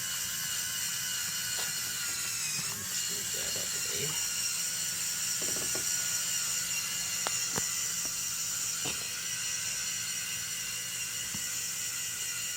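Lego Technic tractor's electric motors and plastic gear train running with a steady high whine under load as it pulls the weighted sled, with a few sharp clicks.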